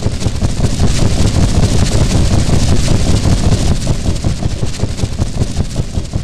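Train running, a heavy rumble with fast rattling clatter, loudest a second or two in and easing slightly toward the end.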